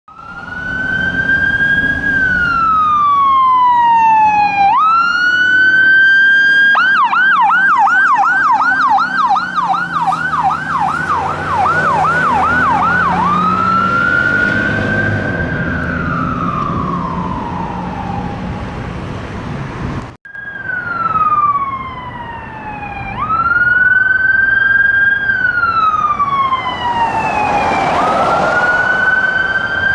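Electronic sirens on fire apparatus sounding on an emergency response, over diesel engine rumble. The siren sweeps slowly up and down in a wail, switches to a fast yelp for about six seconds, then goes back to the wail. About two-thirds of the way through there is an abrupt break, and the wail carries on.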